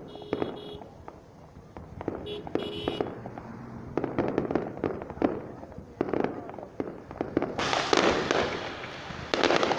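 Fireworks going off: scattered sharp bangs that thicken into a dense, louder run of crackling bangs near the end.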